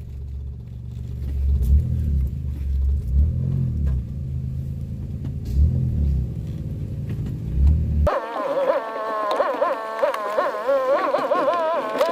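Vehicle engine running low and rumbling, its pitch rising and falling with the throttle. About eight seconds in it cuts off abruptly and a wavering, high-pitched sound with several tones takes over.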